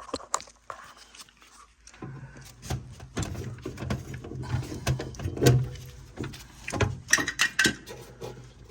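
Clicks, scrapes and rattles of metal furnace parts being worked loose by hand. A steady low hum comes in about two seconds in and runs under the clatter.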